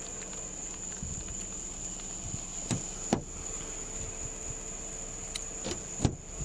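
Crickets chirring in a steady high-pitched chorus, with a few faint clicks or knocks from handling about a third of the way in, twice, and again near the end.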